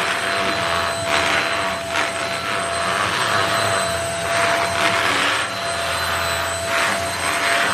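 Handheld UV-light mattress vacuum cleaner running: a steady motor whine under a rush of air that swells and eases every second or so.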